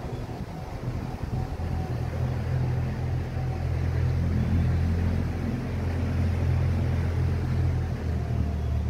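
Motorboat engine running steadily underway, a low drone that gets a little louder about halfway through.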